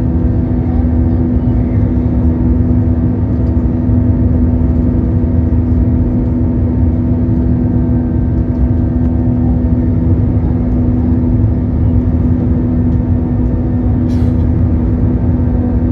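Steady, loud drone of a South African Airways Airbus A320-200's jet engines and airflow heard inside the passenger cabin, a constant low hum with several steady tones over it. A short click sounds about fourteen seconds in.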